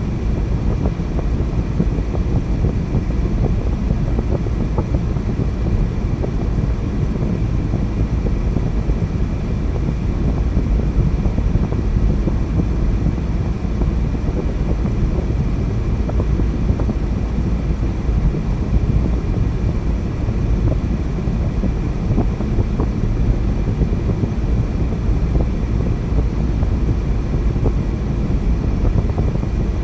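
Steady low rumble of a car driving along at an even pace: tyre and road noise with the engine running underneath.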